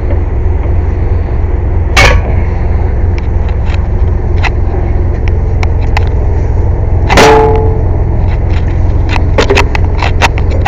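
Air compressor running with a steady, loud low drone. Two short, loud bursts of noise break in, about two seconds in and again around seven seconds, and a quick run of metallic clicks and knocks comes near the end.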